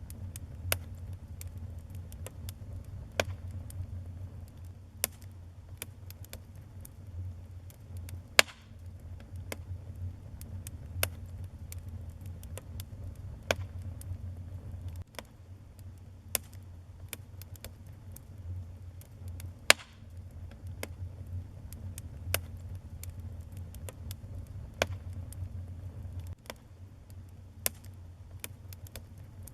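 Wood fire burning in a fireplace, crackling with irregular sharp pops and a few louder snaps over a low steady rumble.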